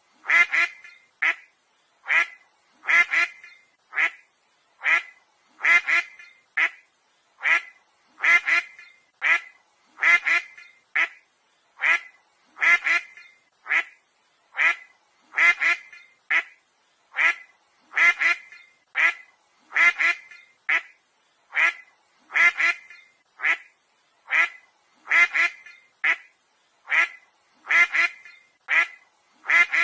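Duck quacking over and over, short quacks at an even pace of a little over one a second.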